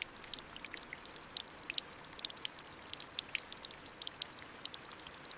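Light rain: many irregular raindrops dripping and ticking over a soft, steady hiss of rainfall.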